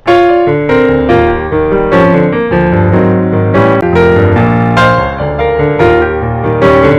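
Background piano music: struck notes and chords in a steady, flowing rhythm.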